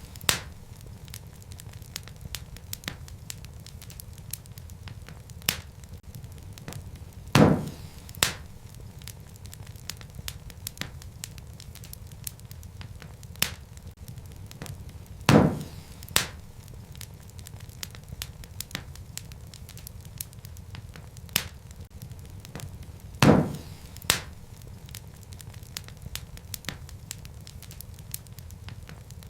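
Wood fire crackling in a fireplace: a low steady rumble of flames with many small snaps, and a louder pop about every eight seconds, usually followed by a second one under a second later.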